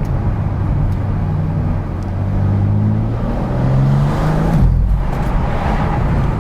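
BMW M4 Competition's twin-turbo inline-six engine running under acceleration, its note climbing twice and then dropping sharply near five seconds in.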